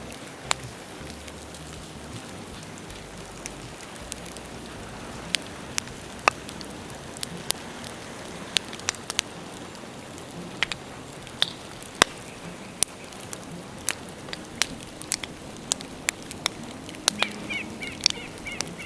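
Bonfire of dead bamboo crackling: sharp, irregular pops over a steady hiss.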